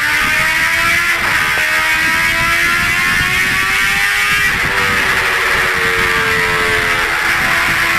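Motorcycle engine running under way, its pitch climbing as it accelerates and dropping back at a gear change about a second in and again around four and a half seconds in, then holding steady.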